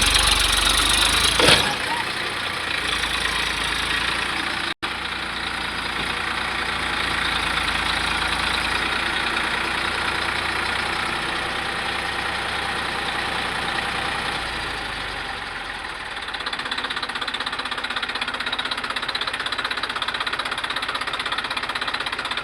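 A tractor's diesel engine running steadily under way. A loud rushing noise covers the first second or so.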